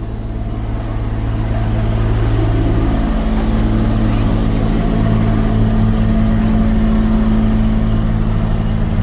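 Car engine running steadily with road noise, growing louder over the first few seconds and then holding.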